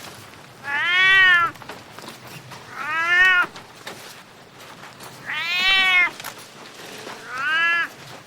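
Domestic cat meowing four times, about every two seconds, each meow a drawn-out call that rises and then falls in pitch.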